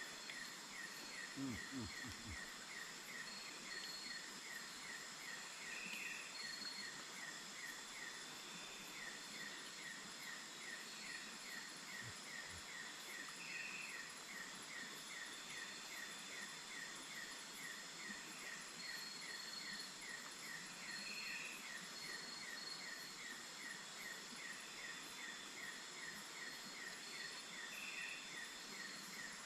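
Rainforest insect chorus: a steady high-pitched buzzing of insects with a rhythmic chirping at about four chirps a second, and a short call repeating every seven or eight seconds, over a steady background hiss. A few soft low knocks sound about two seconds in.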